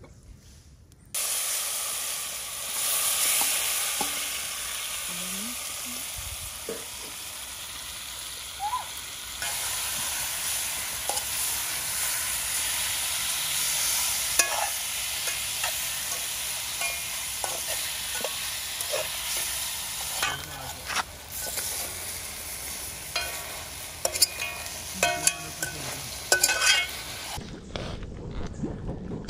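Curry chicken sizzling as it fries in a pot and is stirred, with a utensil scraping and knocking against the pot, more often in the second half. The sizzle starts abruptly about a second in and cuts off shortly before the end.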